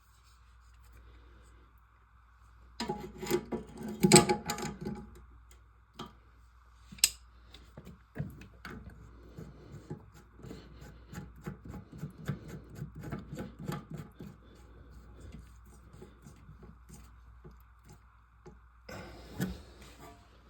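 Hands working on toilet tank parts: scattered clicks, rubbing and clatter of plastic and porcelain, loudest in a burst about three to four seconds in and followed by a run of small quick ticks, under a faint steady hum.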